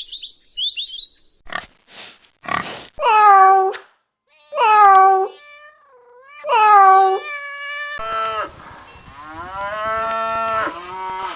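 A string of separate farm animal calls: brief high chirps, three short rasping bursts, three loud short calls that fall in pitch, then from about eight seconds in a long cow moo.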